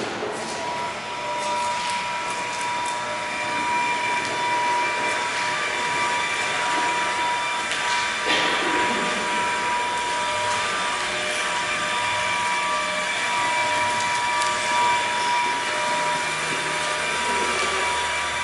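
A motor-driven machine running steadily with a constant whine, with a few knocks and clatters over it about eight seconds in.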